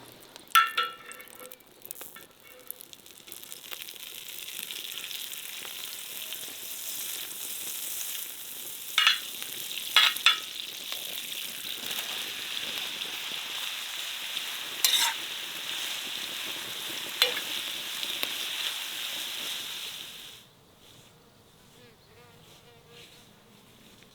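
Food sizzling in hot oil, with a few sharp metal utensil clinks against the pot. The sizzle cuts off suddenly near the end.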